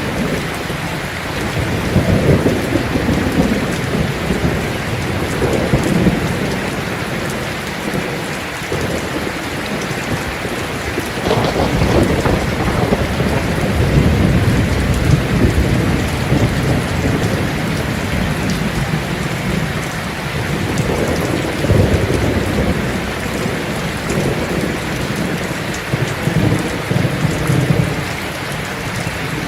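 Heavy rain drumming on a tin roof in a steady hiss, with low rumbles of thunder swelling and fading several times, the longest through the middle.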